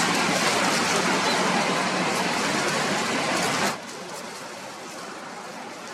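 Strong wind buffeting the microphone: a loud, steady rushing noise that drops sharply to a lower level about four seconds in.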